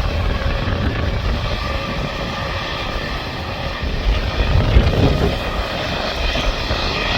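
Airbus A220-300 airliner's Pratt & Whitney PW1500G geared turbofans on landing: a steady jet noise with a faint whine over a low rumble, growing a little louder about halfway through.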